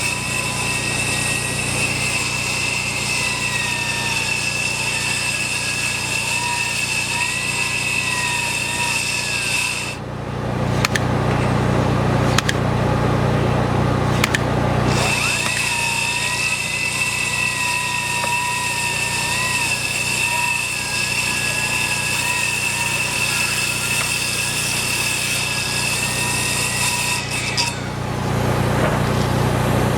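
Power tool running at a construction site, its motor whine wavering in pitch as the load changes. It cuts out for about five seconds and again near the end, leaving a steady engine rumble underneath.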